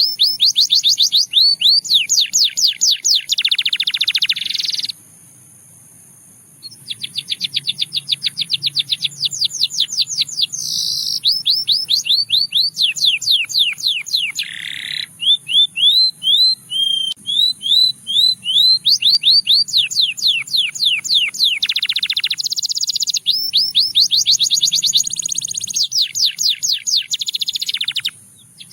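Russian singing canary singing in long, fast trills of repeated sweeping notes that change pattern from one trill to the next, with a pause of about two seconds some five seconds in.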